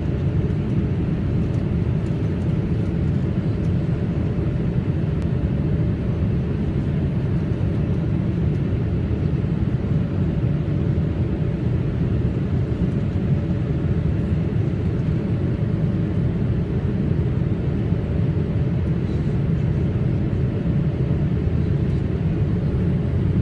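Steady cabin roar inside a Boeing 787 Dreamliner in flight: a deep, even rush of airflow and engine noise with a faint constant hum above it.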